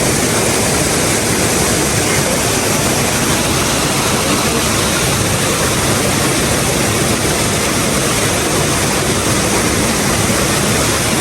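Loud, steady rush of water pouring down from a waterfall.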